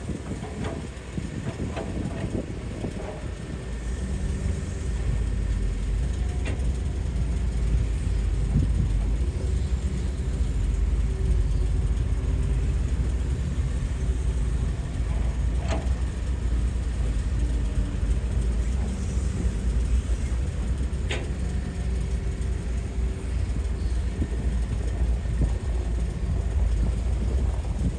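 Hydraulic excavator's diesel engine working steadily with a deep low rumble, getting louder about four seconds in, with a few sharp metallic clanks.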